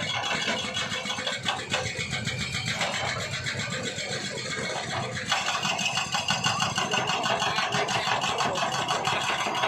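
A small engine running steadily with a fast, even rhythm; its tone shifts about five seconds in.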